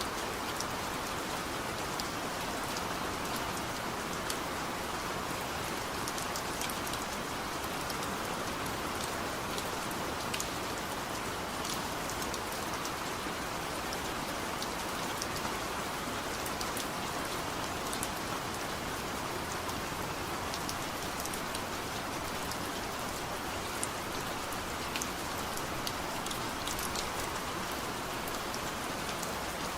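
Heavy rain falling steadily, a dense even hiss with scattered sharp ticks of individual drops.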